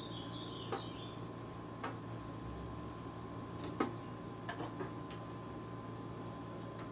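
A few light, sharp clicks and taps of plastic and metal parts being handled as the PS3's loosened casing is taken apart, the loudest about four seconds in, over a steady low electrical hum.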